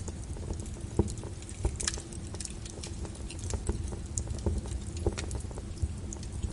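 Wood fire burning in a fireplace: a steady low rumble with irregular crackles and pops, a sharp pop about a second in.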